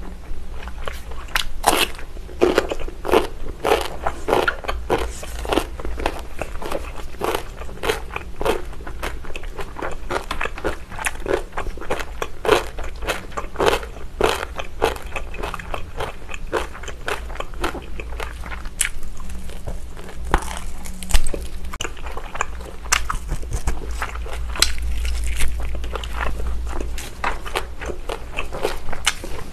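Close-miked crunching and chewing of radish kimchi and grilled lamb chop. Crisp bites come thick and fast for the first fifteen seconds or so, then thin out into quieter chewing.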